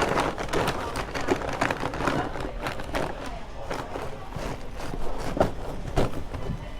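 Indistinct chatter of many people in a fast-food restaurant, with a few sharp knocks and clatter in among it.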